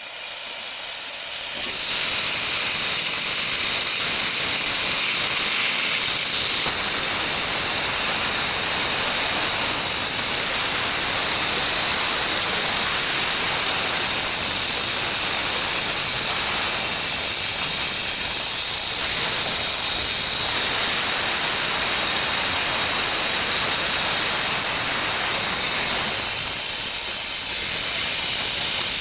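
Abrasive blast nozzle spraying: a loud, steady hiss of high-pressure air and grit that builds up over the first two seconds and then holds.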